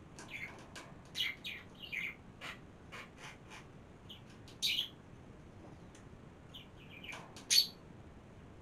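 Small birds chirping: scattered short, high chirps, the loudest a little before the end.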